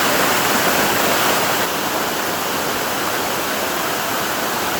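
Waterfall rushing: a steady, loud roar of falling water that dips slightly in level about two seconds in.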